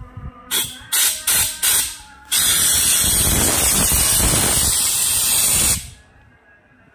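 Pressurised jet hissing as it is blasted through the pipe of a choked car heater core: four short blasts, then one steady blast of about three and a half seconds that cuts off sharply.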